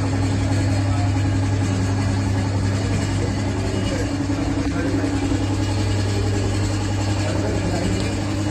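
Kawasaki Ninja 1000SX inline-four engine idling steadily through a newly fitted aftermarket exhaust, with no revving.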